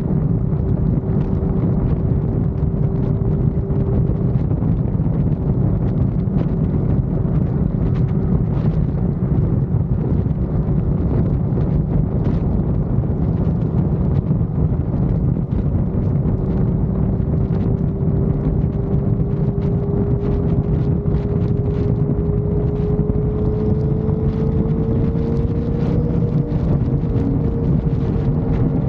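Motorcycle cruising at highway speed, its engine running steadily under heavy wind rush on the microphone; the engine note climbs slightly near the end as it speeds up.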